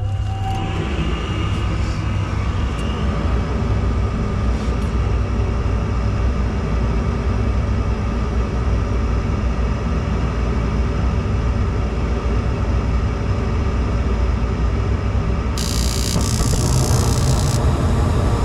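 Gas furnace running on a test start: a steady mechanical hum and rush of air from the draft inducer and burner, with a brief high hiss about 16 seconds in. The test follows clearing a cobweb from the burner orifice that had kept the flame from crossing over.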